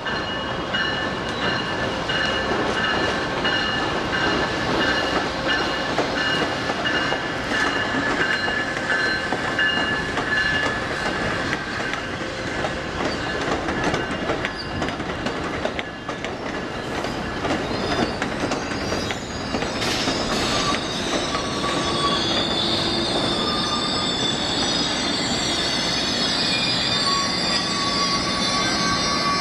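Amtrak passenger cars rolling slowly into a station, steel wheels squealing on the rails with clicks over the rail joints. The squeal climbs to a higher pitch in the last few seconds.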